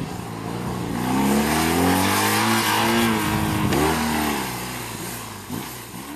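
A police motorcycle engine accelerating on the course. Its pitch climbs from about a second in and holds, dips briefly near four seconds in, then falls away as the engine sound fades.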